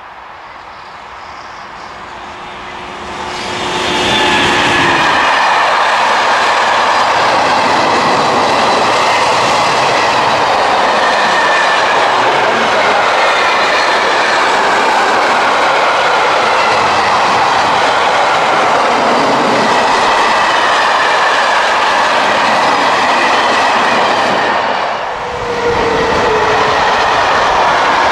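A long freight train approaches, growing louder over the first few seconds, then runs past close by: a steady rumble and clatter of wagon wheels over the rails, with high wheel squeal. About 25 s in it gives way to another freight train of tank wagons passing just as loud.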